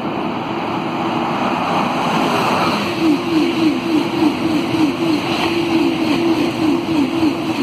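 Eurostar Class 373 high-speed train passing at speed. A rush of air and rail noise builds as it approaches, then from about three seconds in a rapid, even beat of wheels sounds, about four a second, as the carriages go by.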